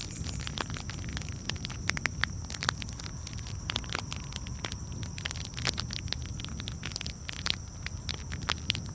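Wood fire crackling, with many irregular sharp pops and snaps over a low steady rumble and a faint high hiss.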